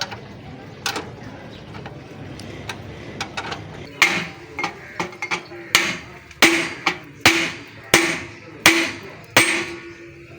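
Hammer striking metal: a few light knocks, then about eight hard blows at an even pace in the second half, each followed by a brief metallic ring.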